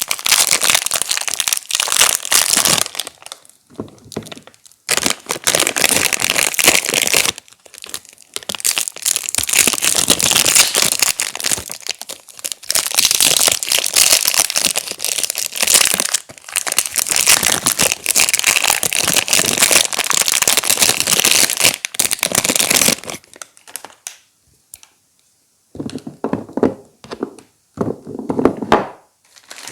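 Soap bar wrappers crinkling and tearing as they are unwrapped by hand, in long stretches of dense crackling broken by short pauses. Near the end the handling turns lower and duller after a longer pause.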